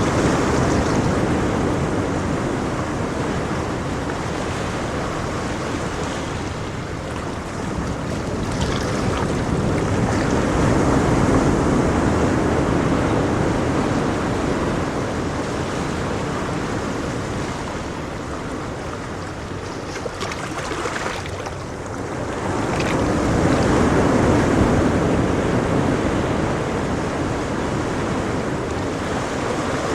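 Ocean waves breaking on a shore, a steady wash of surf that swells and falls back slowly, about every ten to twelve seconds.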